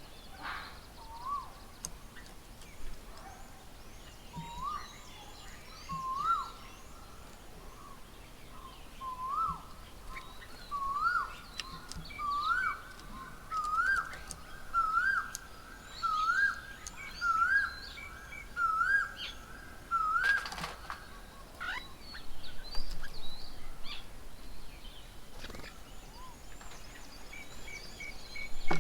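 Asian koel calling: a run of about a dozen two-part rising calls that climb in pitch and come faster, then stop abruptly about two-thirds of the way through. Smaller birds chirp higher and fainter, with a short whoosh just as the calls stop.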